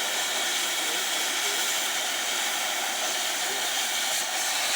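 Oxy-acetylene cutting torch running with a steady hiss.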